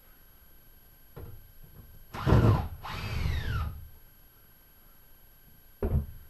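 Power drill run briefly, loud for about half a second, then winding down with a falling whine after the trigger is let go. Short knocks a second in and again near the end.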